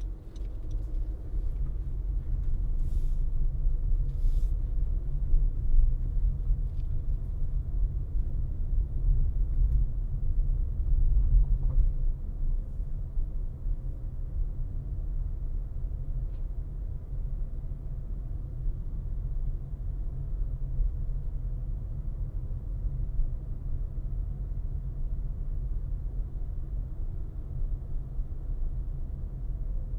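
Low, steady rumble of a car being driven: road and tyre noise with engine hum, with two brief ticks a few seconds in.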